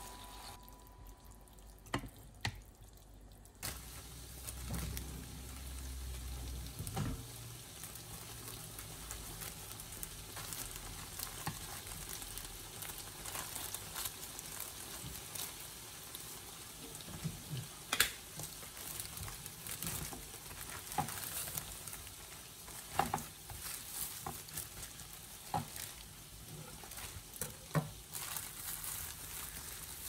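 Chicken, peas and carrots sizzling steadily in a frying pan while being stirred with a spatula. Sharp clicks and rustles come through it as a plastic packet of brick pastry sheets is handled and a sheet is laid out, the loudest click about two-thirds of the way in.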